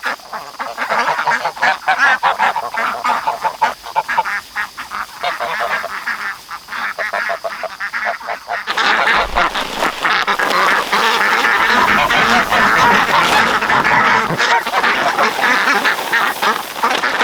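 A flock of domestic ducks and geese quacking and honking. About halfway through, a steady rushing noise joins the calls and the whole gets louder.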